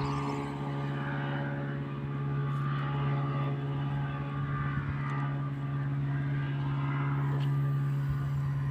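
Steady engine drone at an even, unchanging pitch.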